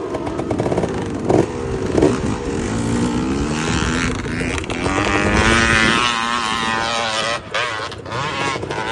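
Off-road enduro motorcycle engines revving, their pitch rising and falling, with two sharp knocks about a second and a half in and again half a second later. Near the middle the revs climb higher and louder, then drop back.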